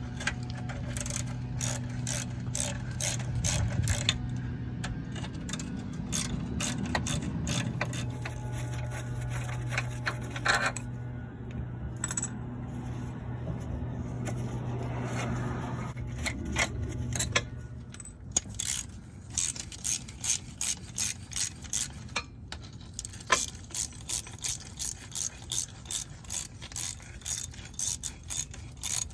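Hand ratchet clicking in quick, even strokes, about two to three clicks a second, in the second half, as bolts of a worn dogbone (transmission) mount are undone. Before that, scattered metal tool clicks and scraping over a steady low hum.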